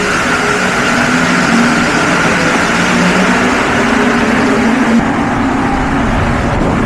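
Mexico City Metro subway train running: a loud, steady rumble with a humming whine. About five seconds in the higher part fades and the low rumble grows.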